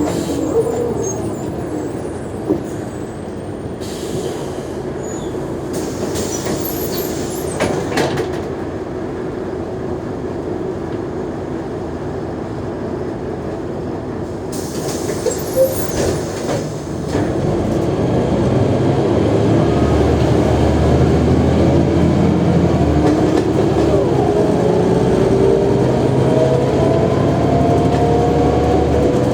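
Mercedes-Benz O345G articulated city bus slowing with a falling whine and standing with a few hisses of compressed air. About seventeen seconds in it pulls away: the diesel and drivetrain grow louder with a whine rising steadily through the gears.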